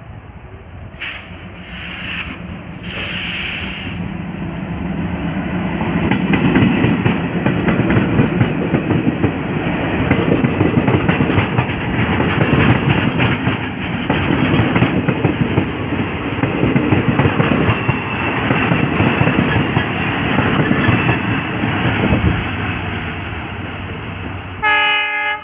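Alco WDM 3F diesel locomotive passing close by: its engine rumble swells after a few seconds and stays loud, with the wheels clicking rhythmically over the rail joints. A brief horn sounds near the end.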